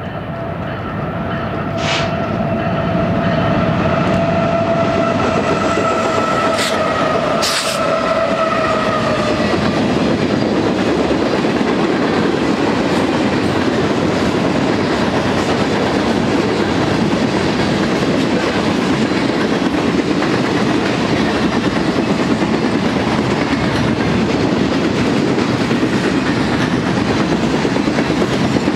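Freight train cars rolling past close by: a steady rumble and clatter of wheels on rail, growing louder over the first few seconds. For about the first ten seconds a steady ringing tone sits on top, sagging slightly in pitch before it fades, with a few sharp clicks.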